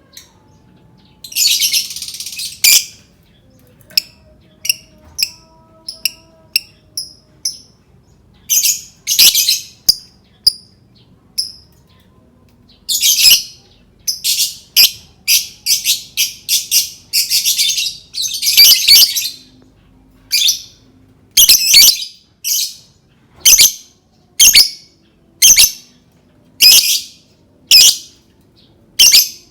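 Lovebird calling with shrill, harsh calls high in pitch. Some come as longer rasping bursts of a second or so; others are short sharp chirps repeated about once a second.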